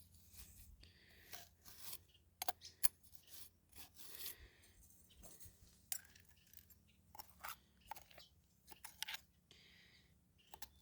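Irregular scrapes, crunches and small clicks of digging through ash and earth around a buried glass bottle.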